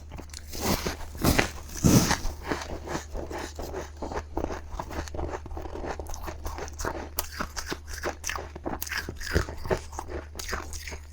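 Close-up crunching and chewing of freezer frost: rapid crisp, crackly bites of powdery ice, the heaviest crunches about a second or two in.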